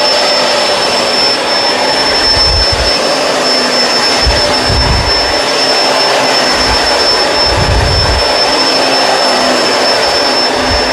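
Kenmore Crossover Ultra upright vacuum running on carpet, a steady motor rush with a constant high whine. Low rumbles swell and fade every couple of seconds as it works the carpet.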